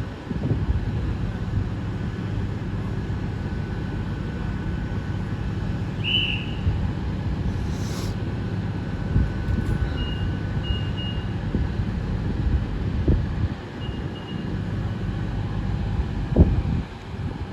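GWR Class 802 bi-mode train's diesel engines running steadily while it stands at the platform, with short high beeps, typical of door warning tones, a few times, and a couple of low knocks.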